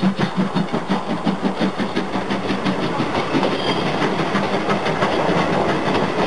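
Passenger coaches of a steam-hauled train rolling past, the wheels clacking in a quick, even rhythm. The rhythm evens out into a steady rumble after about two seconds.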